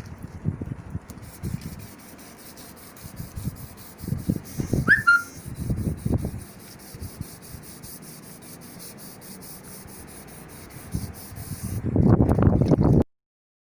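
Hand sanding of body filler on a car body panel: irregular rubbing strokes, heavier near the middle and again near the end, with a short high chirp about five seconds in. The sound cuts off abruptly just before the end.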